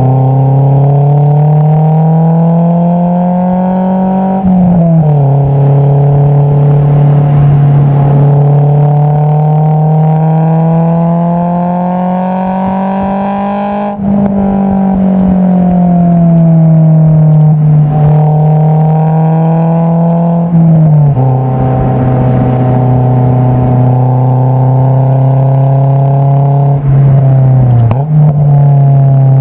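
Honda S2000 AP2's 2.2-litre inline-four with an Invidia Q300 exhaust, heard close at the exhaust tip while driving. The engine note climbs slowly in pitch under acceleration and drops sharply at upshifts about four and twenty-one seconds in. It eases off for a while in the middle.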